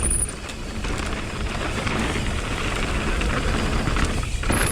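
Mountain bike riding down a rough dirt trail: wind buffeting the camera mic with a heavy rumble, tyres rolling over the dirt, and the bike rattling over bumps. Two short high-pitched squeaks, one at the very start and one near the end.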